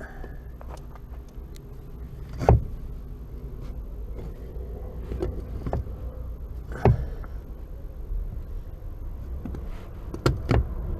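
Clunks and clicks of the loosened clutch pedal assembly being worked out from under the dashboard: a sharp knock about two and a half seconds in, another about seven seconds in, and two close together near the end, over a steady low hum.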